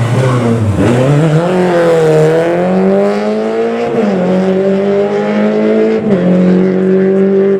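Rally car engine working hard on a gravel stage: its note dips low about a second in, then climbs under acceleration, dropping sharply at two upshifts about four and six seconds in.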